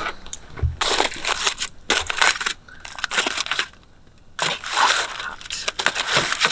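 Crinkling, crunching noises in about five short bursts, each half a second to a second long.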